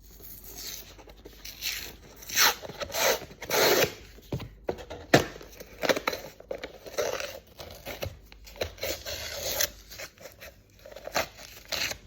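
Sealed protein powder container being opened: irregular tearing, crinkling and scraping as the seal is ripped and pulled away, in uneven bursts with the loudest around the middle.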